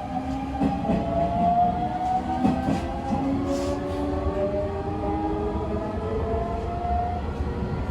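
Hanshin 9000 series train's Mitsubishi late-type GTO VVVF inverter and traction motors whining as the train accelerates, with several tones rising slowly in pitch over the running rumble. A few wheel clicks on the rails are also heard.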